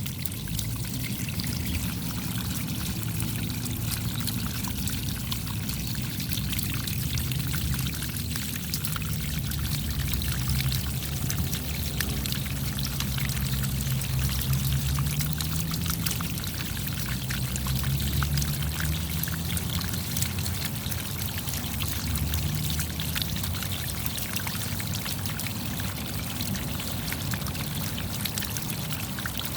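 Steady rainfall: a dense patter of raindrops over a continuous rush of running water.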